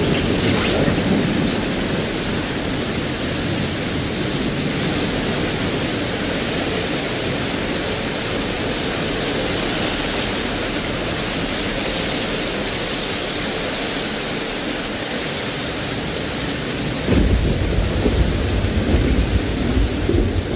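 Steady rain in a thunderstorm. About seventeen seconds in, a deep, uneven rumble sets in and the sound gets louder.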